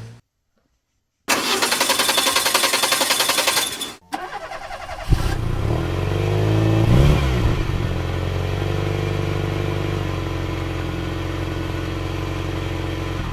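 A vehicle engine being cranked with fast, even pulses, catching about five seconds in, revving once briefly, then idling steadily.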